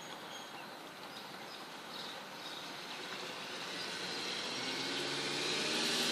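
A motor vehicle approaching over a steady outdoor background hiss, its engine hum growing louder in the last two seconds.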